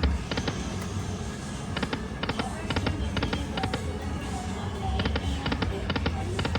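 Happy Lantern Lightning Link slot machine spinning, with runs of quick sharp clicking reel-stop sounds repeating every second or so over its electronic game music and a steady low casino hum.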